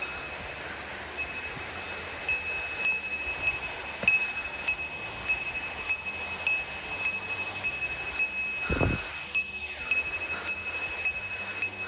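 A small bear bell jingling in time with a walker's steps, struck about every 0.6 seconds, over a steady hiss, with one brief low thump about nine seconds in.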